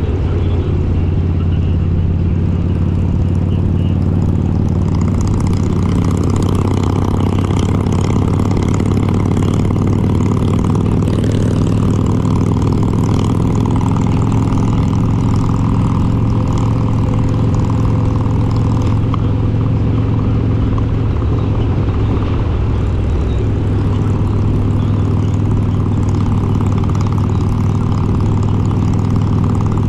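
Harley-Davidson Road King's S&S 95-cubic-inch V-twin with Super Stock heads running steadily under way. About three quarters of the way through, the engine note dips briefly, then holds steady again.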